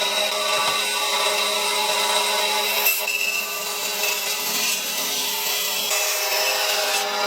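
Power tool working wood: a steady whine over a loud rasping noise, which changes in character about three seconds in and again near six seconds.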